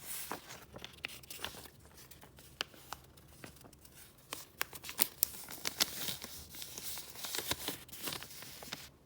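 Paper being handled and flipped through: continuous rustling and crinkling with many small sharp crackles, busiest in the second half.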